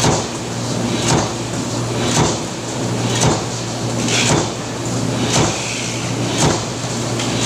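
Press machine stamping at a steady rhythm, a short impact about once a second, over the constant hum of the running machine.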